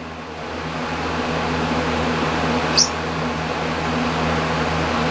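Steady mechanical hum and hiss of a running appliance, with one short, high chirp about halfway through.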